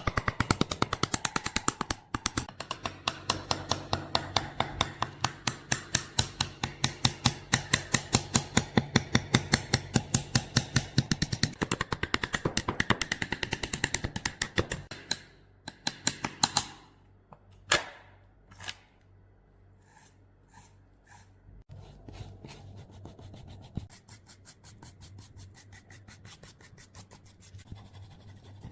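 Fast, rhythmic scraping strokes of hand work on the rusted metal of an MP5, about five a second. They stop about halfway through, leaving a few separate clicks and knocks, then go on more softly near the end.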